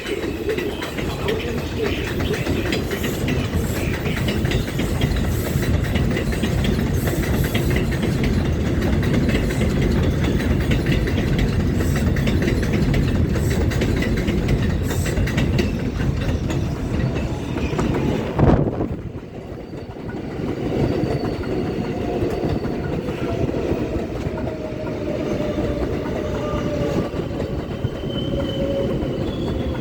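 New York subway R142/R142A train running on elevated track: loud steady rumble and wheel clatter. About two-thirds through there is a sharp knock, the noise drops, and thin whining tones from a train's wheels and motors come in.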